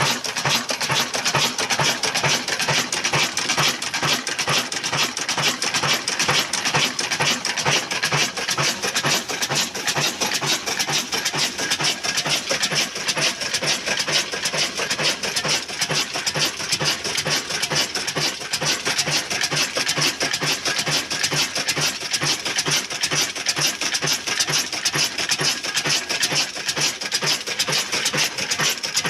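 Old black desi diesel engine of the Ruston type, a slow single-cylinder, running steadily with an even rhythmic beat while driving an atta chakki flour mill.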